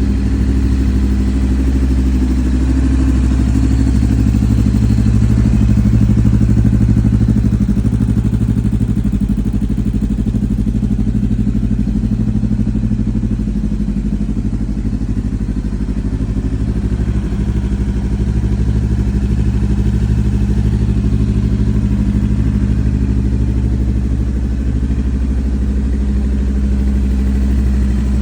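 Honda motorcycle engine idling steadily, its pitch holding level without revving.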